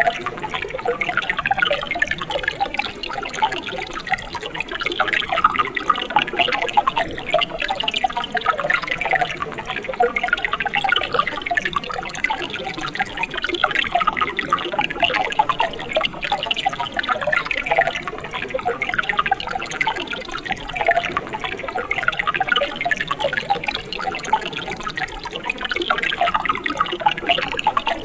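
Mountain stream water flowing steadily, with a dense, continuous patter of small splashes and gurgles.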